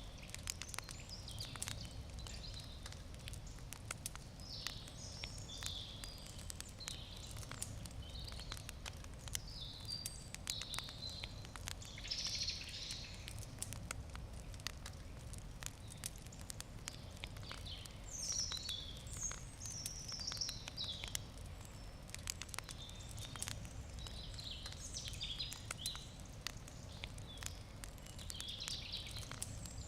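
Wood fire crackling with irregular sharp pops and snaps, while small birds sing in short chirping phrases in the background over a low outdoor rumble.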